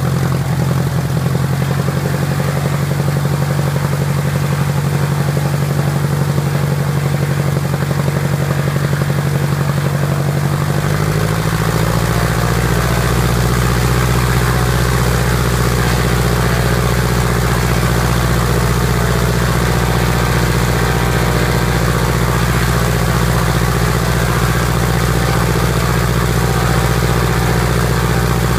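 Piper Apache's piston aircraft engines running steadily, stepping up to a slightly higher speed about eleven seconds in.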